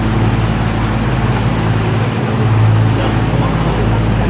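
Canal tour boat's motor running steadily under way, a low even hum with a wash of water and air noise.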